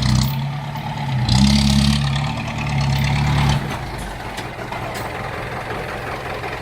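Heavy vehicle's engine running under load. It pulls harder from about a second in and eases back about three and a half seconds in.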